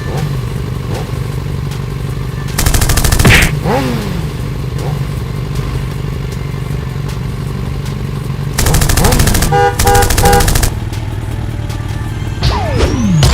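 Cartoon vehicle sound effects: a steady engine rumble, broken three times by bursts of rapid rattling clatter, with several falling whistle-like tones over it.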